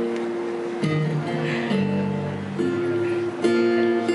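Acoustic guitar playing an intro chord progression, a new chord struck about every second and left to ring.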